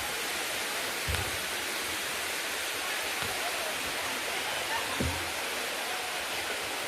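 Water of the Bua Tong waterfall rushing steadily down its limestone cascade, with two short low thumps, about a second in and about five seconds in.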